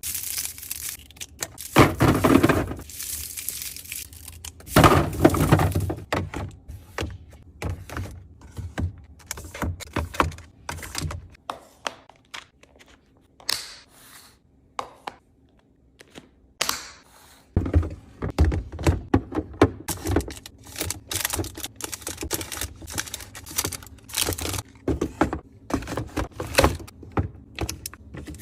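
Food packaging and containers being handled and set down in a fridge restock: repeated thunks and clicks with crinkling plastic. There are dense clusters near the start and again through the second half, with a sparser stretch of light clicks in the middle.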